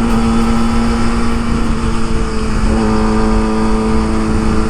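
Kawasaki ZX25R's inline-four engine through an Akrapovic exhaust, held at steady revs while riding, with one even note over wind and road rumble. The note grows fuller about two and a half seconds in.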